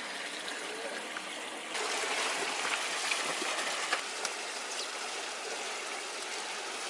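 Mineral spring water running steadily, turning louder and brighter a little under two seconds in.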